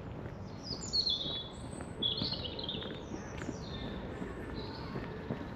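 A songbird singing two short phrases of quick, high, varied chirping notes, the second starting about three seconds in, over a steady low outdoor background hum.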